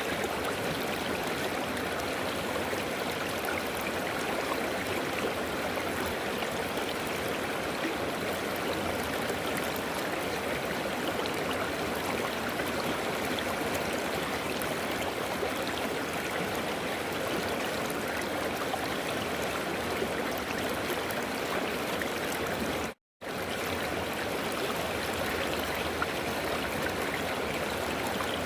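River water flowing and rushing steadily, a constant even wash of water noise. It is broken by a momentary cut to silence about 23 seconds in.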